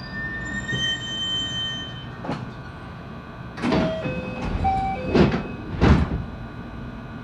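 JR West 223-series electric train running, heard from inside the car: a steady inverter whine over the rumble of the wheels, broken by four loud clacks, about 2, 4, 5 and 6 seconds in, with short wheel squeals among the later ones.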